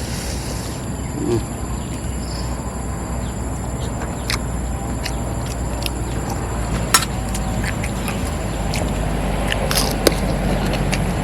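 Steady outdoor background of a continuous high insect drone over a low rumble, broken by a few sharp clicks and knocks; the loudest click comes about seven seconds in, with two more close together near the end.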